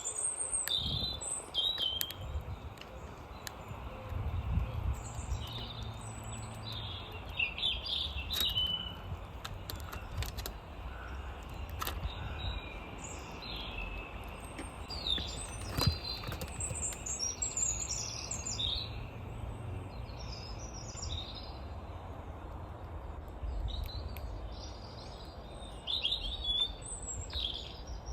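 Small garden songbirds chirping and twittering in short scattered calls, over a low background rumble, with a few sharp clicks.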